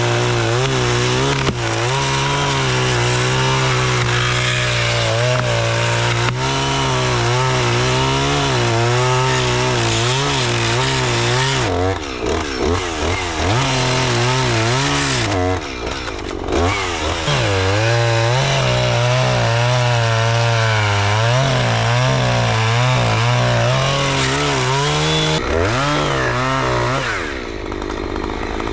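Two-stroke chainsaw running under load, cutting hickory wood, its engine pitch wavering and dipping as it bogs in the cut. It drops out of the cut briefly a few times, and near the end it falls to a lower, quieter speed.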